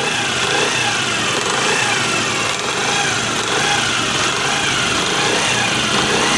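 Motorcycle engine running with an abnormal mechanical noise, a steady clatter with a whine that rises and falls about once a second. The mechanic traces it to the clutch-cover side, where he later points to a worn bush and bearing.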